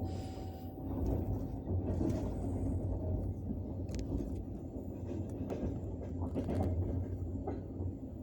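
Passenger train wheels running on the rails: a steady low rumble of the carriage at speed, with a few sharp knocks from the wheels.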